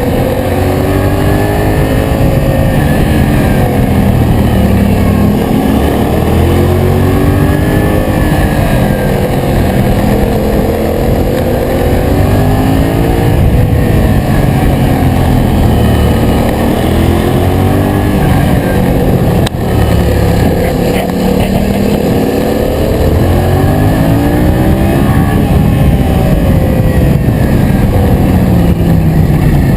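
Yamaha MT-07's parallel-twin engine under way, its pitch rising and falling every few seconds as the throttle is opened and eased off, over a steady rush of wind noise. There is a brief sharp click about two-thirds of the way through.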